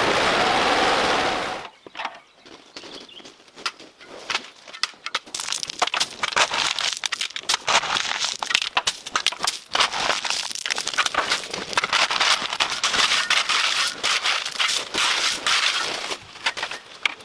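A steady motor running stops abruptly under two seconds in, followed by a long run of dry crackling and snapping, like leaf litter and twigs being crushed.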